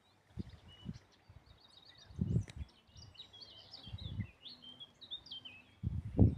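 Small birds chirping in quick short notes, with several dull low thumps in between, the loudest near the end.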